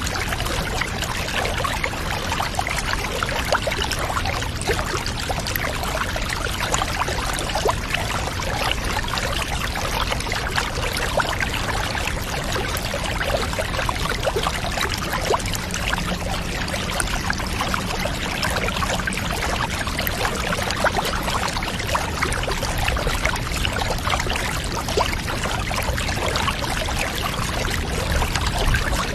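Water pouring and trickling steadily, with a dense, crackly splashing texture.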